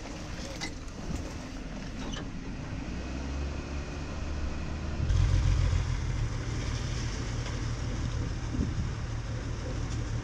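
Jeep engine running steadily off-road, heard close up from the hood. About five seconds in, the sound cuts to a louder, steady engine idle.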